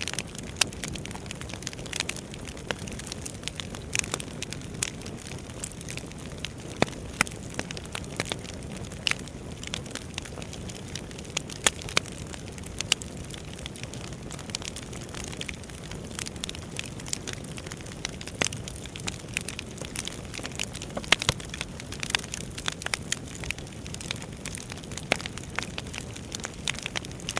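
Wood fire burning: a steady low rush of flames with frequent irregular crackles and sharp pops of burning firewood.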